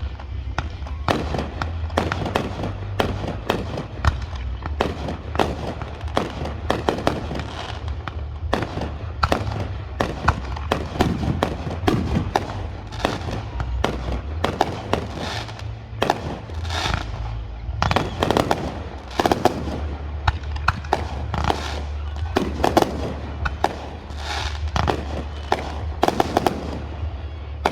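Fireworks going off in rapid succession, a dense run of bangs and crackling pops, over a steady low rumble.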